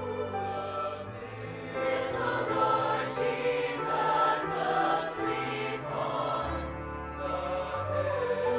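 A choir singing a slow piece over instrumental accompaniment, with long held notes above a steady bass line. A run of short hissy accents comes in the middle.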